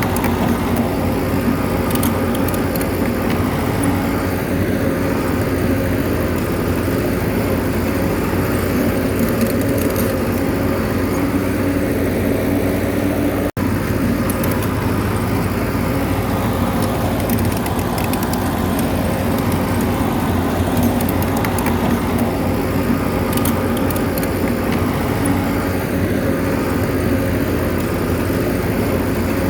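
Bulldozer's diesel engine running steadily under work, with a split-second break about halfway through.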